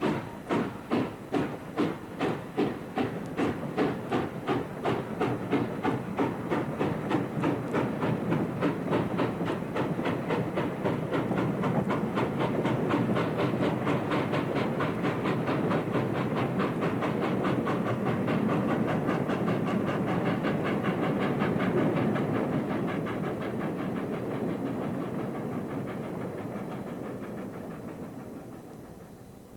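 Steam locomotive chuffing, starting about twice a second and speeding up until the beats run together into a steady rushing hiss, then fading away near the end.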